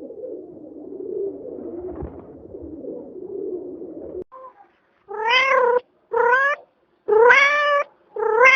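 Domestic cat meowing four times, about a second apart, starting about five seconds in. Before the meows there are about four seconds of low rough rumbling.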